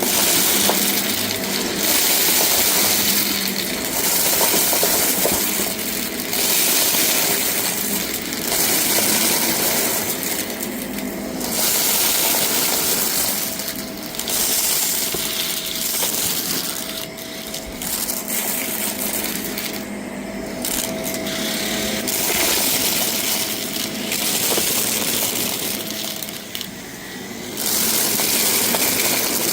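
Vacuum cleaner running over a rug, its motor humming steadily while the high suction hiss swells and eases every second or two with the back-and-forth strokes. It is sucking up a scattered debris mix, which rattles through the machine.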